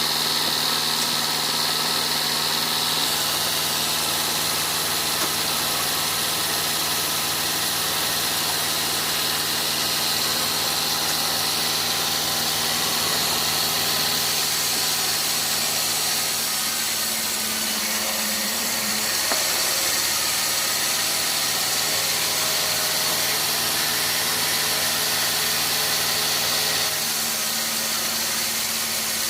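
Sawmill machinery running steadily with an engine-like hum and a high whine. The hum dips in pitch briefly about two-thirds of the way through and settles on a slightly different note near the end.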